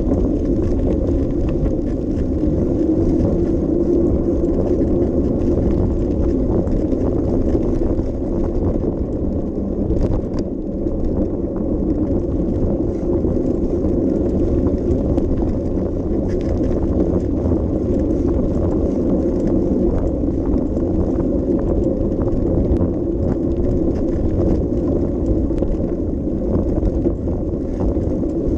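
Bicycle ride recorded by an action camera: a steady low rumble of tyres and wind on the microphone, with scattered light clicks and rattles.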